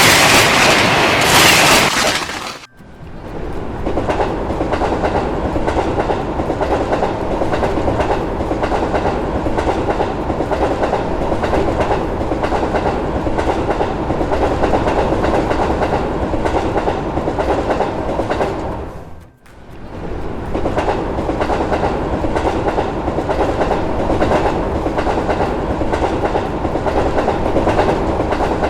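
Train passing at speed, a steady running rumble with wheels clacking over the rail joints. A brighter, higher passage at the start cuts off about two and a half seconds in, and the sound drops out briefly twice, the second time about two-thirds of the way through.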